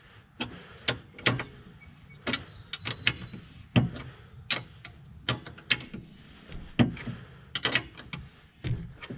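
Irregular clicks and light knocks of hands working metal parts on a finish mower deck while a bungee cord is pulled tighter, about one or two a second.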